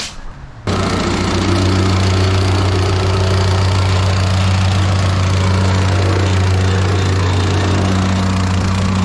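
Small gasoline engine on job-site equipment running steadily at constant speed, a loud low hum with a rougher buzz above it; it cuts in suddenly a bit under a second in.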